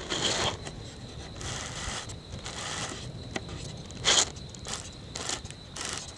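Short bursts of rustling and scraping close to the microphone, repeated several times; the loudest comes about four seconds in.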